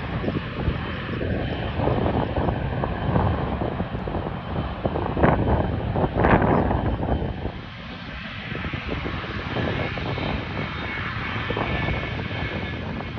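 Jet airliner engines rumbling as the aircraft moves past on landing or takeoff, with gusty wind buffeting the microphone. The sound is loudest about halfway through, then eases a little.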